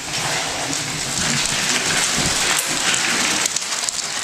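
Vacuum cleaner running, a loud steady rushing noise that sets in abruptly at the start.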